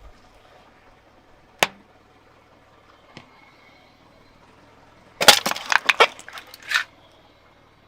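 A car tire crushing something brittle: one sharp snap, then, a few seconds later, a rapid cluster of loud cracks and crunches lasting about a second and a half.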